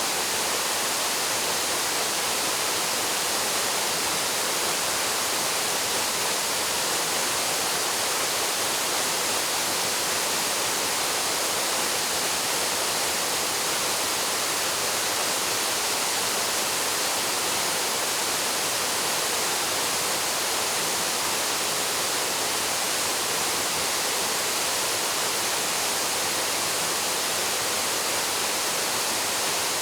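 Waterfall plunging into its pool: a steady, unbroken rush of falling water, its hiss strongest in the upper range.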